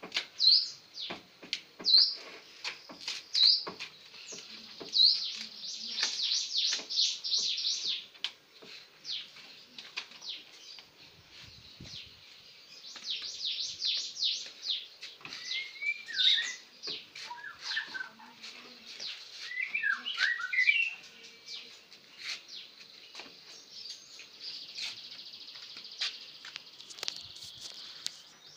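Small birds chirping: short rising chirps about every second and a half at first, then quick runs of chirps, with a few lower falling notes near the middle. Scattered light clicks and knocks come through as well.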